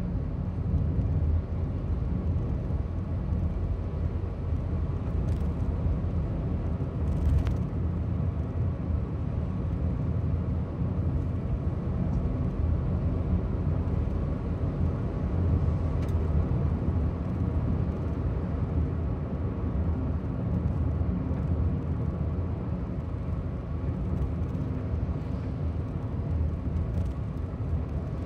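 Cabin noise of a new Honda N-BOX Custom on the move: a steady low road and engine rumble, with a few faint light clicks now and then. The knocking rattle near the right rear sliding door comes from a loose clip on the right brake light.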